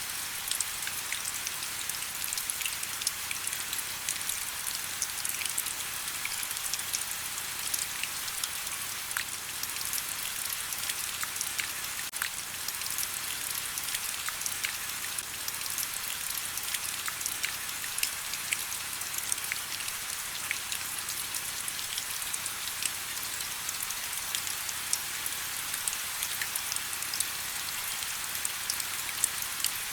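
Steady rain falling, a constant hiss with many separate drops ticking sharply on a hard surface.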